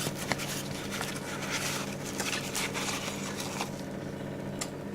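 Faint rustling of lamp wrappers and small clicks of handling as an old neon lamp is taken out of its protective wrapping, over a steady low hum.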